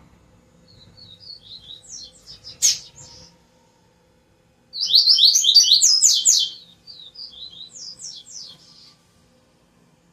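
Songbird singing three phrases of quick, high chirping notes, the middle phrase loudest.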